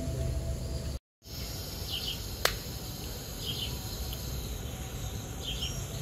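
Small birds chirping in short repeated bursts over a steady low rumble. The sound cuts out completely for a moment about a second in, and there is a single sharp click near the middle.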